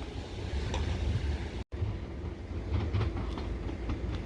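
Southern Class 377 electric multiple unit running along the platform with a steady low rumble and faint clicks of its wheels over the rail joints. The sound cuts out completely for a moment about a second and a half in.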